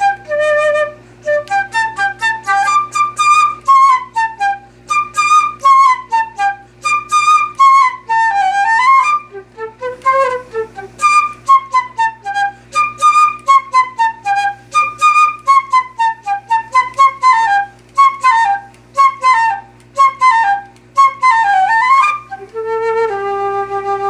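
Flute playing quick runs of short notes, many in falling phrases, ending on one long held note near the end, with a steady low hum underneath.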